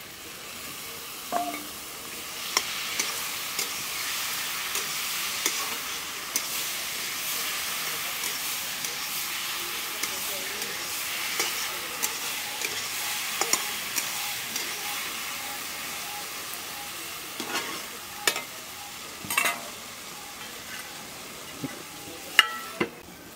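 Masala of onion, peas, spices and freshly added tomatoes sizzling in a kadhai as it is stirred, a metal spatula scraping and tapping against the pan. A few louder metal clinks come near the end.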